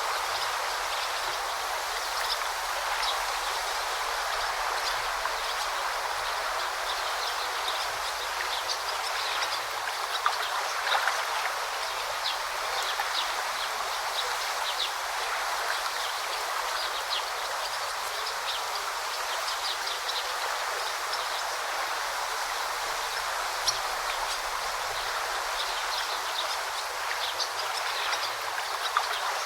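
A forest stream babbling steadily, with short high-pitched ticks scattered over the flowing water.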